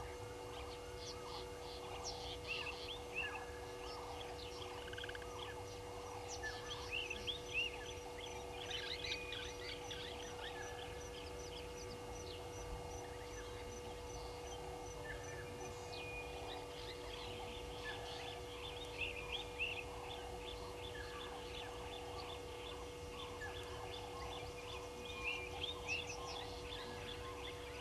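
A chorus of wild birds: many short chirps and calls overlap, with louder bursts about 7, 9, 19 and 25 seconds in. A steady faint hum runs underneath.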